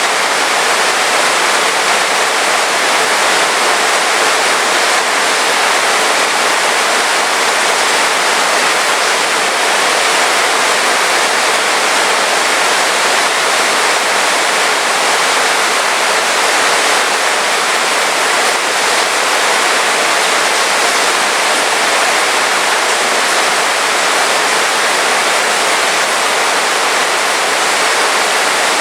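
Heavy rain falling steadily, a dense even hiss with no individual drops or thunder standing out.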